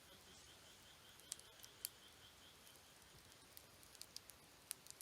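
Wood campfire crackling quietly, with scattered sharp pops. A faint high chirping, about five pulses a second, goes on underneath and stops about three seconds in.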